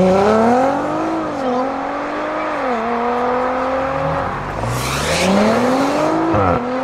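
Audi RS4 Avant's twin-turbo V6 accelerating hard away, its note rising and dropping twice on quick upshifts before holding steady. Then an Audi RS5 Sportback's twin-turbo V6 launches, its pitch climbing steeply with a brief hiss, and drops on an upshift near the end.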